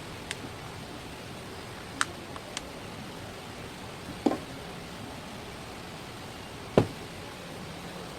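A few scattered light knocks and taps over a steady hiss, the loudest a dull thump near the end.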